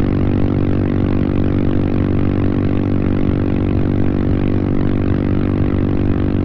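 Royal Enfield Himalayan 450's single-cylinder engine running at a steady speed while the bike cruises, with wind rushing past.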